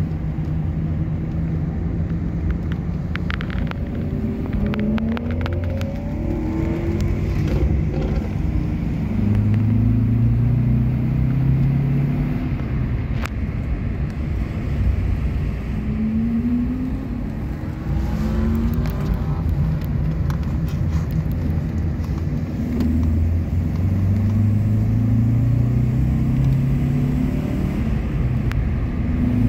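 Alfa Romeo boxer flat-four engine heard from inside the cabin, pulling up through the gears, its pitch climbing and then dropping at each shift several times, with steadier cruising between.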